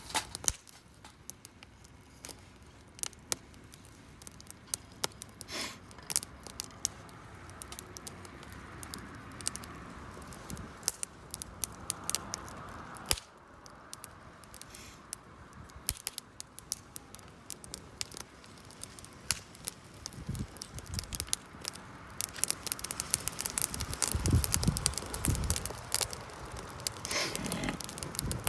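Wood campfire crackling, with many sharp irregular pops over a soft hiss. A few low thuds come near the end.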